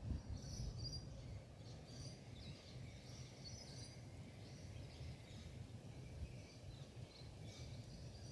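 Faint birds chirping and calling over a steady low outdoor rumble.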